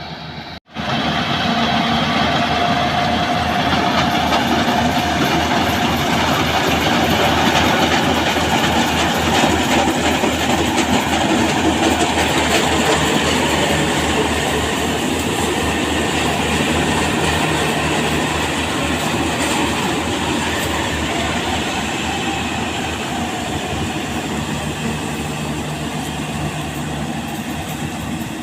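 Yanmar AW70V combine harvester running under load, a loud, steady mechanical din with a fast, even clatter. The sound drops out briefly just under a second in, then carries on.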